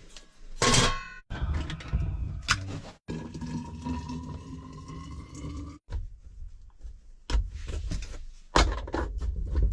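Knocks, clatter and rustling from handling objects, in several short clips cut together, with a steady hum holding one tone for about three seconds near the middle.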